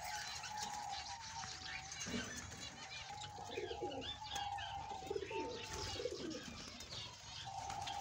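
Cage birds calling: a wavering mid-pitched call with scattered higher chirps above it, and a cluster of lower calls from about three and a half to six seconds in.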